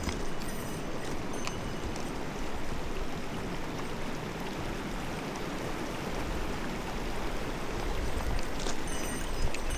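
Clear mountain stream running steadily over its bed, with a few faint short high ticks and some low rumble toward the end.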